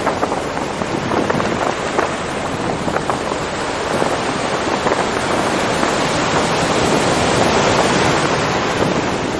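Ocean surf: a steady wash of breaking waves that swells louder partway through and eases again near the end.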